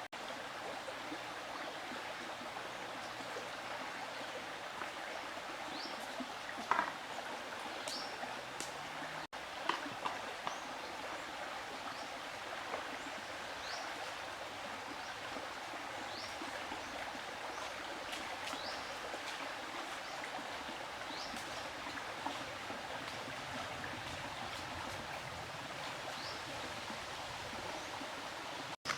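Stream water running steadily, with short high chirps now and then and a few light clicks.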